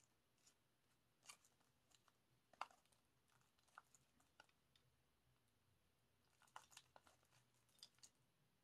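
Faint, scattered crinkles and small clicks of a CD album's packaging being handled, with plastic wrap rustling. The sounds come one at a time, the sharpest a little over two and a half seconds in and a small cluster near the end.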